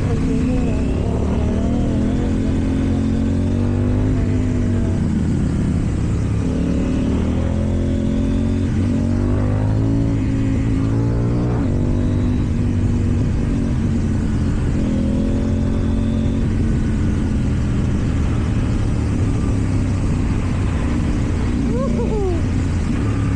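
KTM Duke 790's parallel-twin engine through an Akrapovič exhaust, accelerating and easing off again and again, its pitch climbing and dropping with each burst of throttle and gear change.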